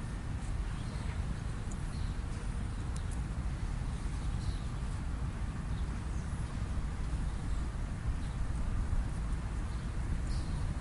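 Wind rumbling on the microphone, with faint, short bird chirps scattered over it a few times.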